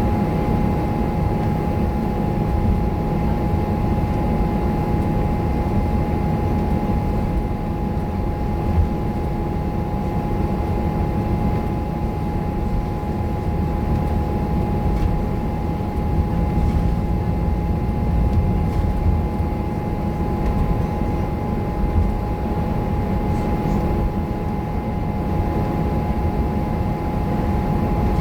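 Scania K230UB bus's diesel engine running steadily under way, a low rumble with a steady high whine over it.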